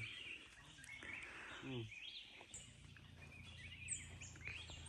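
Wild forest birds chirping, several short, quick calls overlapping, some high and thin, over a faint steady low hum.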